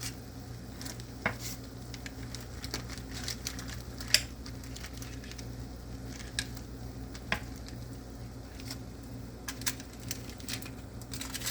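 A utensil tapping and scraping against a hot baking dish as pieces of breaded chicken thigh are turned over in the melted butter, with faint sizzling. There are scattered light clinks, the sharpest about four seconds in, over a steady low hum.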